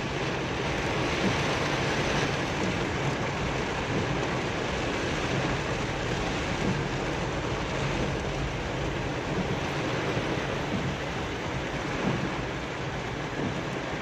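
Heavy rain falling on a car's roof and windscreen, heard from inside the cabin as a steady dense hiss, with a low steady hum underneath.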